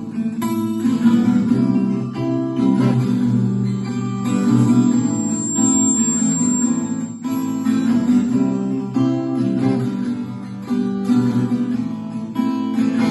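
Acoustic guitar strummed through changing chords: an instrumental passage with no singing.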